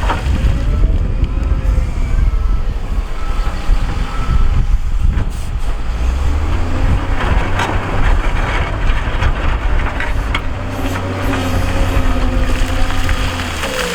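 Heavy diesel earthmoving machinery working, the engine note rising and falling as it takes load, with a few sharp knocks.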